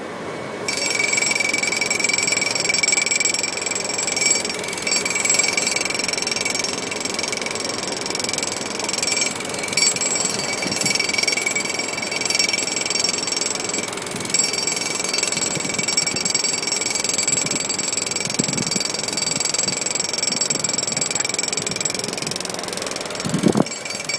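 Wirtgen cold milling machine (road planer) working, its cutting drum grinding off the asphalt road surface. A loud, steady grinding noise with a continuous high-pitched tone over it, which grows louder about a second in.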